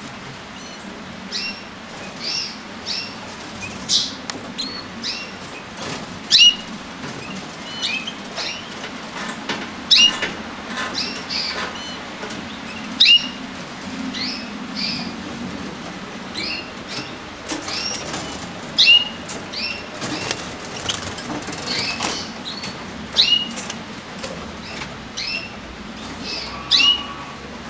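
Canaries giving short, repeated chirping calls, one to a few every second, each a quick bent note. Brief wing flutters and light clicks fall between the calls.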